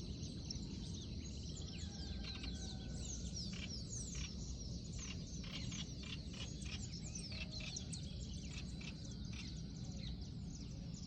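Many small birds chirping, a dense overlapping chorus of short falling notes, with a run of quick repeated calls in the middle. A steady high-pitched tone and a constant low rumble continue underneath.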